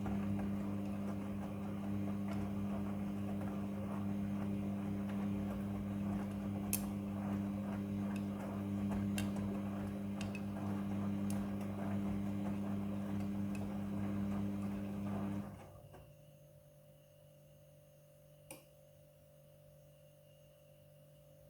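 Midea front-loading washing machine running with a steady hum and a few light clicks. The hum stops abruptly about fifteen seconds in, leaving only a faint hum and a single click a few seconds later.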